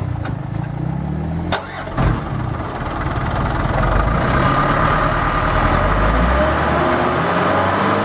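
Diesel truck engine working hard to pull the stuck truck out of mud: it runs low and steady, two sharp knocks come about one and a half and two seconds in, then the engine rises under load about three seconds in and stays loud with a whine.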